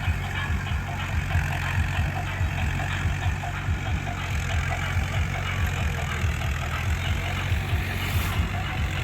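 HMT 50 hp tractor's diesel engine running steadily with an even pulsing beat, driving a BOSS rotavator, with a metallic rattle above the engine note. The engine is not labouring: no load on it.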